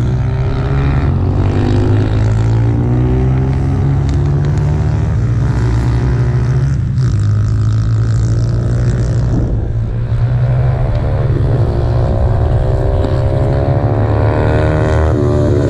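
Motorcycle engine heard from an onboard camera while lapping a race track, its revs rising again and again as it accelerates through the gears, with a short dip about ten seconds in. A steady low rumble of wind on the microphone runs beneath it.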